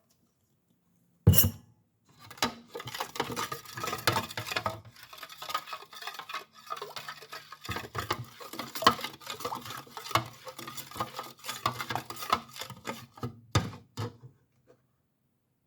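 A utensil clinks and scrapes against a container while herbal hair oil is mixed. There is one loud knock, then about twelve seconds of rapid, irregular clinks.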